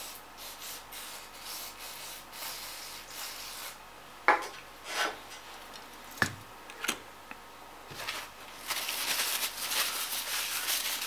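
Small parts of a graphics card fan handled by hand, with rubbing and a few sharp clicks and taps. Near the end comes a steady hiss of about two and a half seconds, contact cleaner being sprayed into the fan.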